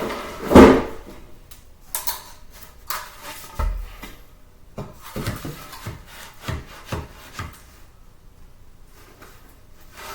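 Wooden boards being handled and set down on a floor frame: one loud knock, then scattered lighter knocks, a low thud and scraping of wood on wood.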